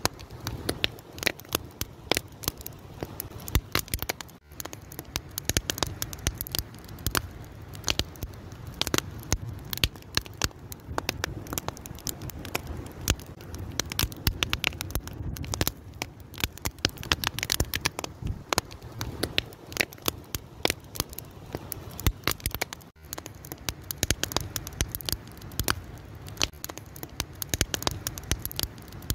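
Fire crackling and popping: many irregular sharp snaps over a steady low rush of flame.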